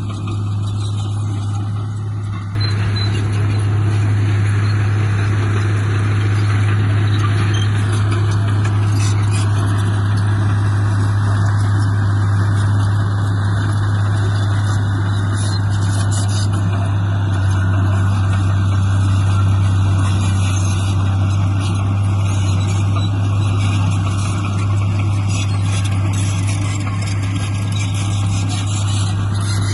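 Heavy diesel earthmoving machinery running steadily with a constant low engine drone, getting louder about two and a half seconds in.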